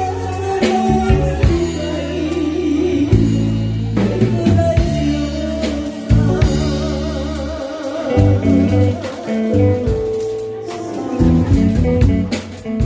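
Enka-style song sung by a singer holding notes with vibrato, over a backing of bass, guitar and drums.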